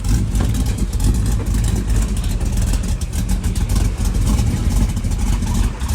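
A car engine running loudly, its exhaust giving a steady, rapidly pulsing rumble.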